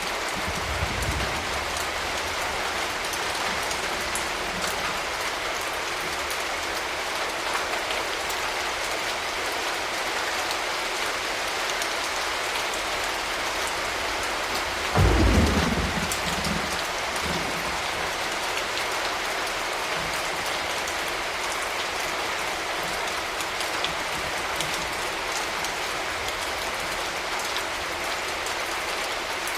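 Steady rain falling, an even hiss, with a short, loud low rumble of thunder about halfway through and a fainter rumble about a second in.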